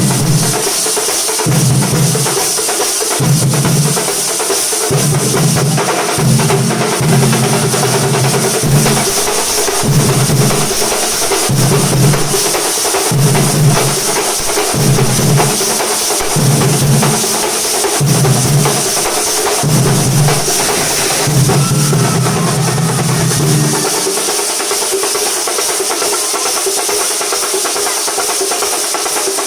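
A Kerala thambolam percussion ensemble playing loud, dense drumming. A deep low pulse repeats about every second and a half and drops out about five seconds before the end, while the rapid drumming carries on.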